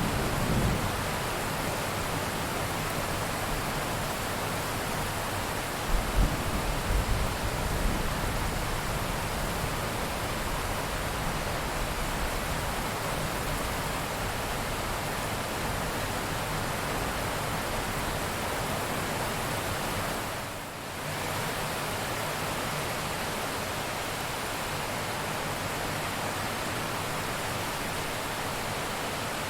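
Steady heavy rain hiss, with a low rumble of thunder about six seconds in lasting a couple of seconds. The rain briefly dips and returns about twenty seconds in.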